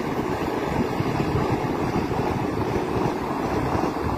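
Vande Bharat Express electric train running past, a steady low rumble of the train on the rails.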